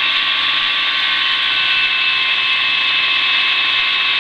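Steady engine and rotor noise of a Schweizer 300CBi light helicopter in flight, heard from inside the cabin, with several steady whining tones over a constant hiss.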